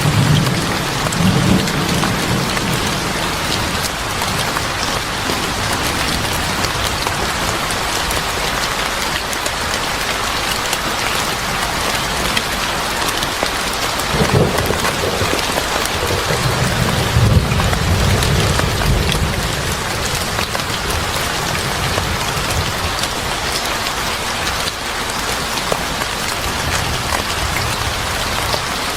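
Steady heavy rain pattering on a surface, with low thunder rumbles near the start and a longer one a little past the middle.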